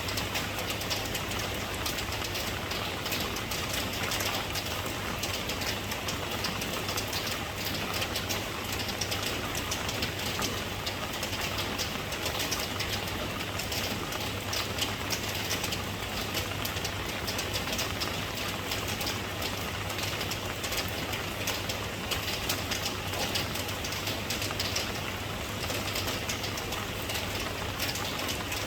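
Steady rain, a dense even hiss full of small drop impacts, with a constant low rumble underneath.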